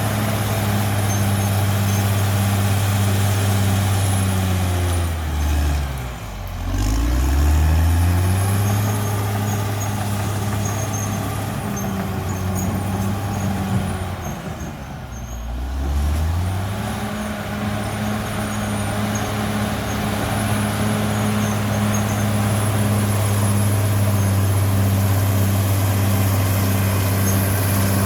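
CAT D6R XL bulldozer's diesel engine running hard and steady. Its note drops and climbs back twice, about 6 and 15 seconds in, with a faint high whine over it.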